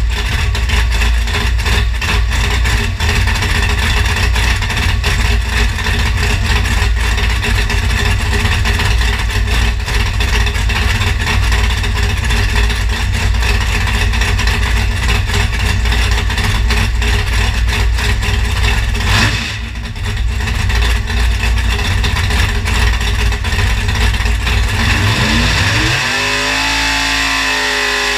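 582 cubic inch big-block Chevy V8 running loudly on an engine dyno with a heavy, pulsing rumble. It dips briefly about two-thirds of the way through, then the revs climb near the end and hold at a steadier, higher pitch.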